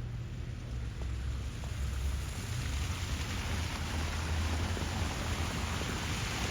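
Wind rumbling on the microphone under a steady hiss of a wet, slushy street in falling snow; the hiss grows louder through the second half.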